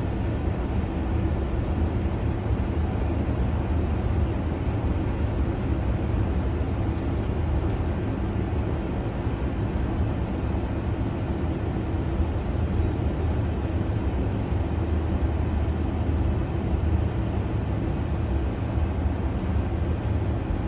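Tram running on its rails: a steady low rumble of wheels and motor with a faint hum, unchanging throughout.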